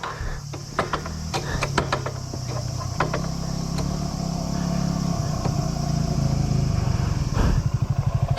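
Yamaha WR250's single-cylinder four-stroke engine comes off idle and runs at steady higher revs, with sharp clatters and knocks over the first few seconds. Near the end it drops back to a slow, even idle.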